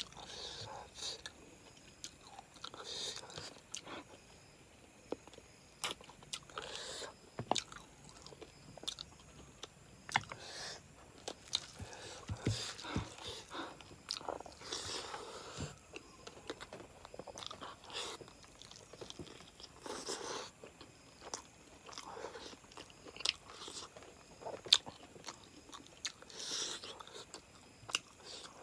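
Close-miked chewing and mouth sounds of someone eating chicken curry and rice by hand, with many small sharp clicks at irregular intervals.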